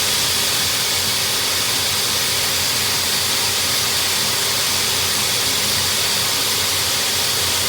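Water spraying steadily from a hose onto an outdoor air-conditioner condenser unit, a continuous even hiss.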